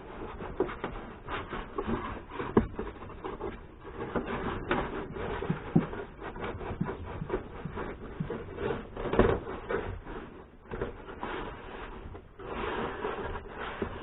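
Irregular rubbing and scraping against a car's interior roof lining and trim, broken by occasional knocks, the loudest about nine seconds in.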